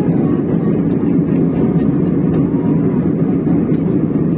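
Steady cabin noise of an airliner in cruise: an even low rumble and rush of the engines and airflow.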